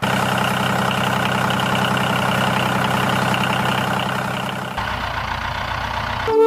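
Tractor engine idling steadily with a fast even beat. It starts abruptly, its tone changes about five seconds in, and it cuts off near the end.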